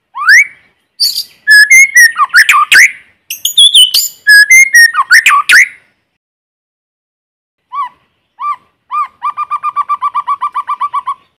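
White-rumped shama singing: loud, varied whistled phrases with rising glides and quick trills. After a pause of about two seconds comes a run of rapid repeated notes, about eight a second.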